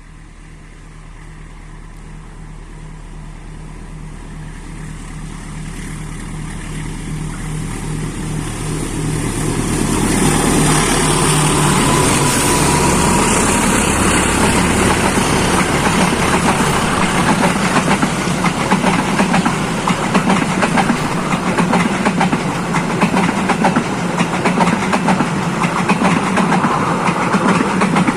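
A diesel-hauled train approaching and passing close by. The locomotive's engine hum grows steadily louder for about ten seconds, then gives way to loud, continuous wheel clatter as the cars go past.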